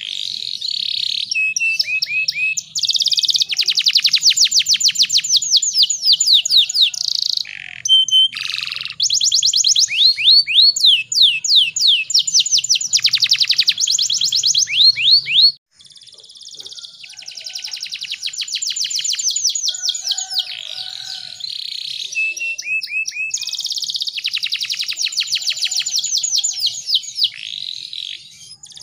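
Domestic canary singing a long song of fast trills and rolling phrases, broken by short pauses, with a brief break about halfway through.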